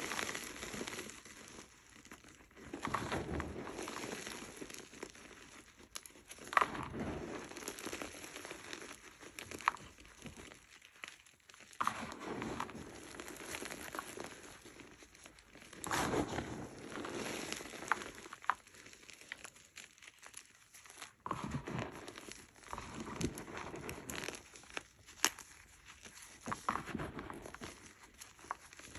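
Blocks of gym chalk crunching and crumbling under close miking: irregular gritty crackling with sharp snaps, easing off briefly twice.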